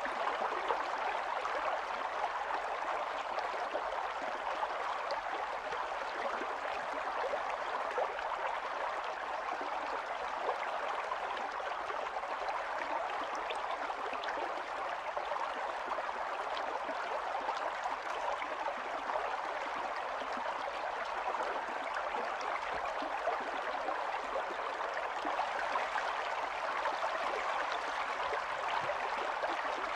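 Stream water running steadily over stones, a continuous babbling and gurgling.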